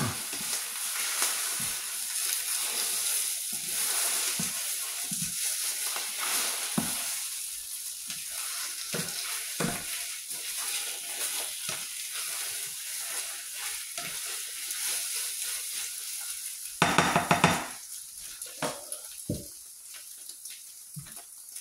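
Eggs, nopales cactus and onion sizzling in a nonstick skillet, with a steady hiss, while a plastic spatula stirs and scrapes them in short irregular strokes. A louder, harsher burst comes about three-quarters of the way through, and after it the sizzle dies down.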